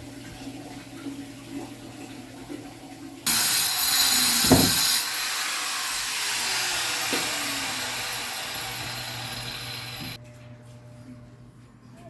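Toilet flushing: a sudden loud rush of water about three seconds in, easing off over several seconds and cutting off abruptly about ten seconds in.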